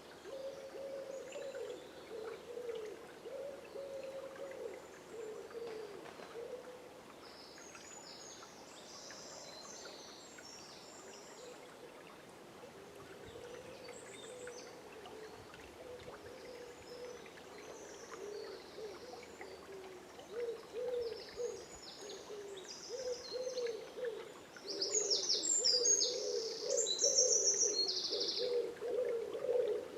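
Birds calling at dawn in woodland: many low, wavering calls repeat throughout and crowd together in the last few seconds. High songbird chirps and trills sound above them, busiest near the end.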